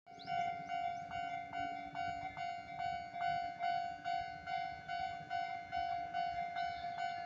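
Railway level-crossing warning bell ringing in an even, rapid ding-ding rhythm of about three strikes a second, a single ringing pitch throughout.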